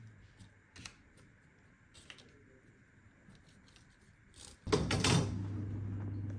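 Light clicks and taps of small objects being handled, then, near the end, a machine switches on abruptly and runs with a steady low hum.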